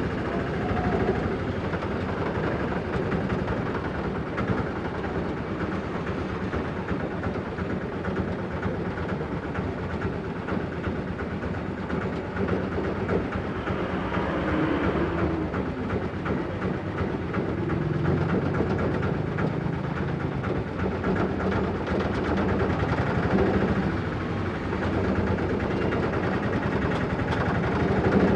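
Motorcycle engine running steadily while under way, with steady road noise.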